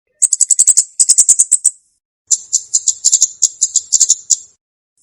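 Recorded song of a komade bird: two bursts of rapid, dry, high-pitched chips, about nine a second, with a short pause between them.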